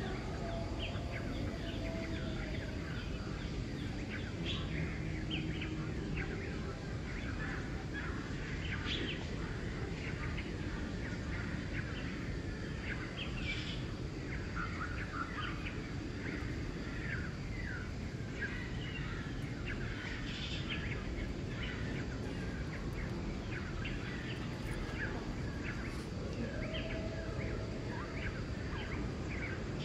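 Many small birds chirping, short calls in quick, scattered runs, over a steady outdoor background hiss. A couple of low drawn-out calls that rise and fall come in near the start and again near the end.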